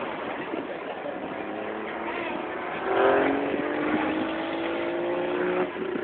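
A 4x4 truck engine revving under load, its pitch climbing slowly for a few seconds and then dropping off near the end.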